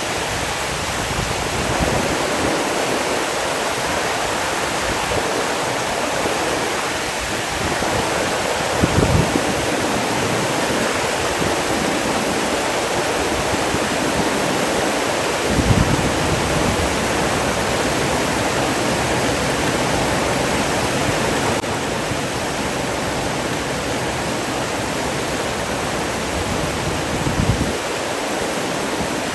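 Rushing water, a steady full hiss like a waterfall or fast stream, broken three times by brief low thumps.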